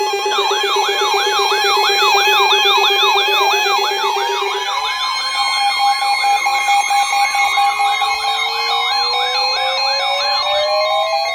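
Electronic alert siren sounds layered over each other: a fast yelp sweeping up and down about three times a second over steady two-tone alert tones. A fast low warble drops out about halfway through, and a slow rising wail joins.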